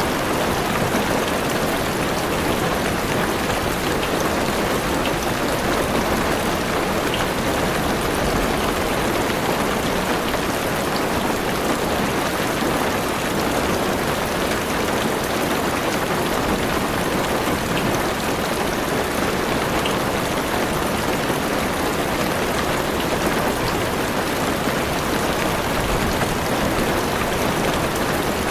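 Heavy rain falling steadily on a car roof and windows, heard from inside the car as an even patter.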